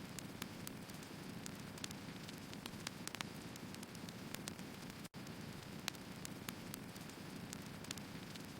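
Firewood burning: irregular sharp crackles and pops over a steady hiss, with a momentary dropout to silence about five seconds in.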